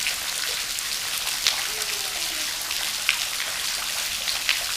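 Steady rain falling, an even hiss with many single drops ticking close by and a few louder drops about one and a half, three and four and a half seconds in.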